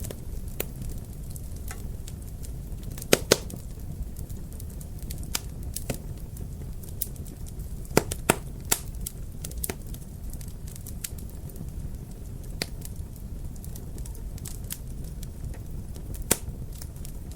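Wood fire burning in a fireplace: a steady low rumble of flames with irregular crackles and sharp pops. The loudest pops come as a pair about three seconds in, another pair about eight seconds in, and a single one near the end.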